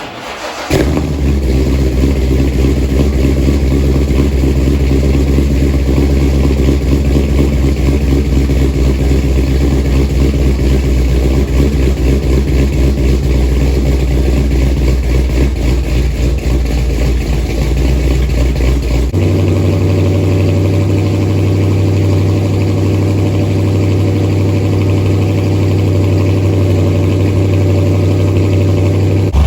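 1968 Ford Mustang's 460 big-block V8 with a big cam, long-tube headers and Thrush mufflers, running loud and steady with a pulsing exhaust note. It comes in sharply within the first second, and about two-thirds of the way through its pitch steps up suddenly and holds steady.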